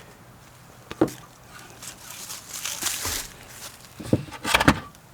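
Handling noises while working on car audio wiring: a knock about a second in, a stretch of rustling, then two or three knocks near the end.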